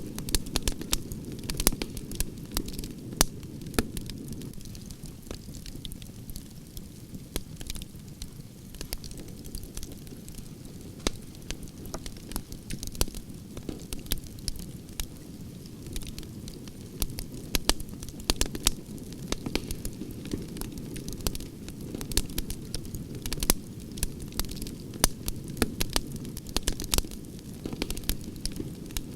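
Campfire of burning logs crackling: frequent sharp pops and snaps over a steady low rush of flame.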